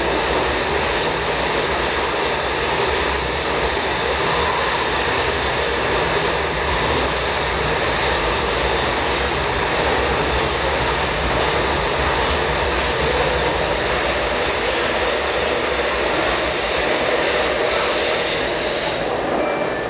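Taipei Metro C301 train with a retrofitted propulsion system running at speed through the tunnel, heard from inside a car: a steady rushing run with a thin high whine over it, easing a little near the end.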